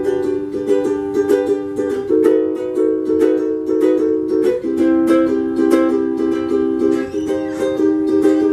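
Ukulele strummed in a steady rhythm, the chord changing every couple of seconds.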